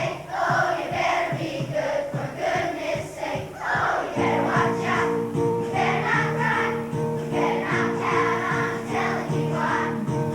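Children's choir singing a Christmas song with accompaniment. About four seconds in, steady held chords come in under the voices.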